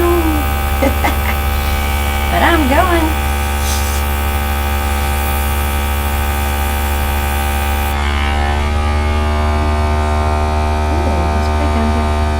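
Small electric air gun running with a steady motor hum, its tone shifting slightly about eight seconds in as the airflow is used on the ink.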